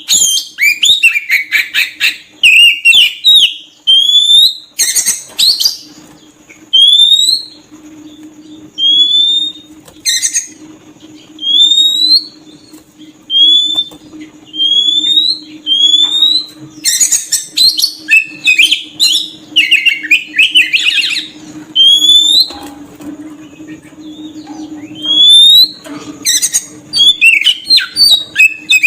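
Oriental magpie-robin (kacer) singing loudly, in the kind of song used as a lure call to attract wild birds. Short rising whistles repeat about every one and a half seconds, broken up by several bursts of fast, varied warbling.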